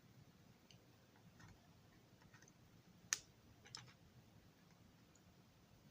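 Near silence with a few faint clicks and taps of small parts being handled on a workbench; the sharpest click comes about three seconds in, followed by a quick pair just after.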